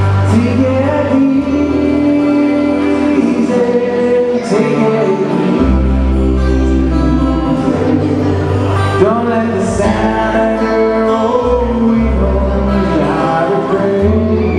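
Live Hawaiian music: singing over guitar with a bass line that changes notes every second or two.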